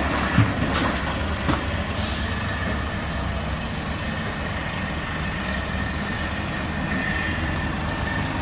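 Bulldozer running: a steady, low mechanical rumble with metallic clatter and a few sharp clicks in the first couple of seconds.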